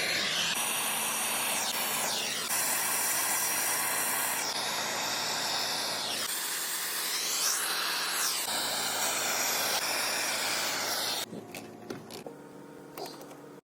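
Water rushing out of a newly installed hose bib at full flow, a loud steady hissing spray, heard in several short cuts. Near the end it gives way to a few faint knocks.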